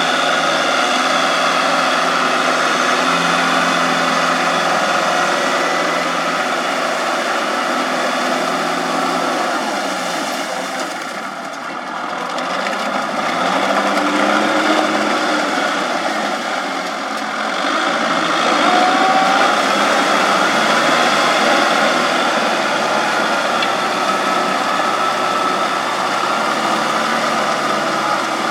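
A farm machine's engine running steadily. About ten seconds in its speed and level sag, then pick back up and carry on running.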